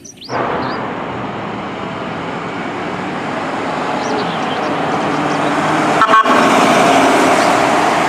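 Fire department ambulance responding through street traffic, its horn blaring over road noise and growing steadily louder as it approaches. There is a brief break about six seconds in.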